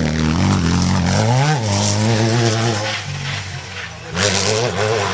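Off-road race truck engine revving hard as it passes, its pitch rising and falling with the throttle, then dropping off before a fresh loud surge of revving about four seconds in.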